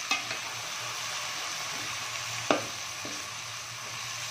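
Minced meat and onions sizzling in hot oil in a pan, a steady hiss, while a metal slotted spoon stirs them and knocks against the pan a few times.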